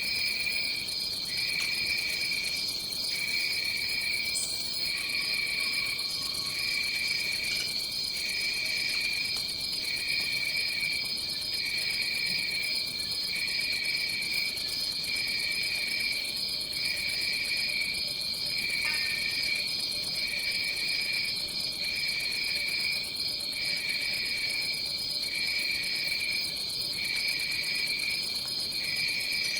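Tropical forest insect chorus: a steady high trill runs with a lower trill that breaks off and resumes about every one and a half seconds.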